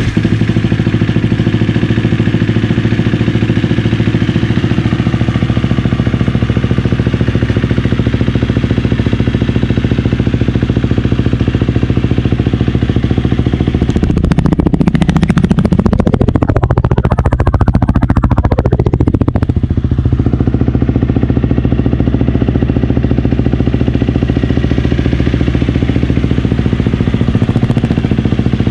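KTM 250 EXC-F dirt bike's single-cylinder four-stroke engine idling steadily through an FMF 4.1 slip-on exhaust, revved up and down for several seconds about halfway through, then settling back to idle.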